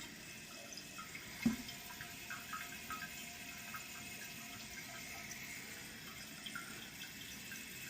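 Water running faintly and steadily from a bathroom plumbing fixture, with a single short knock about one and a half seconds in.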